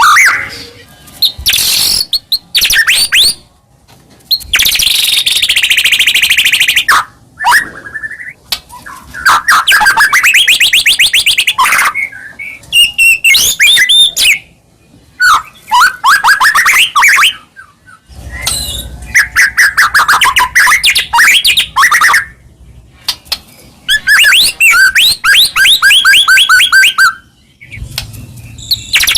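White-rumped shama singing a string of loud, varied song phrases a second or two long with short gaps between them, many of them fast trills. This is the vigorous full song that keepers play to goad other shamas into singing.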